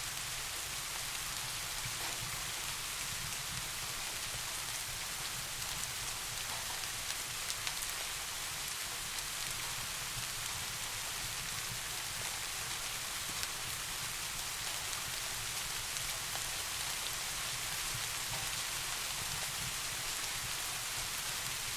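Steady soft rain falling, an even hiss with scattered drops on a surface and a low rumble underneath. A few faint ticks stand out briefly about seven seconds in and again near the middle.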